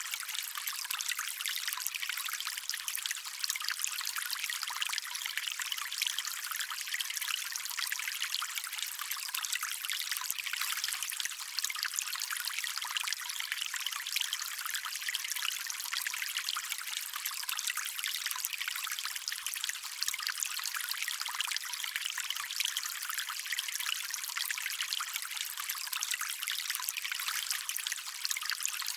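Small stream trickling over stones: a steady, even, bright splashing with almost no low rumble.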